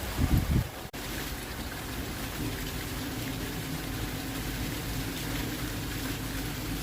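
Steady rain falling, with a faint low hum under it. A few low thumps come in the first half-second, then the sound drops out briefly just under a second in.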